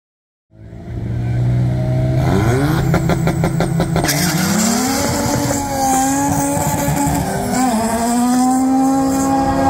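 Ford Fiesta ST's turbocharged 1.6-litre four-cylinder starting about half a second in, held at raised revs with a rapid crackle at the start line. It then launches at full throttle and pulls away, the pitch climbing with a brief dip at each gearshift.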